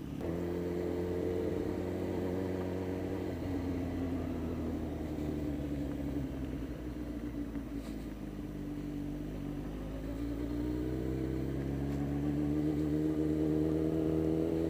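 Suzuki GSX-R1000 inline-four motorcycle engine running under way at moderate revs. Its pitch eases down slowly, then climbs steadily from about ten seconds in as the bike accelerates.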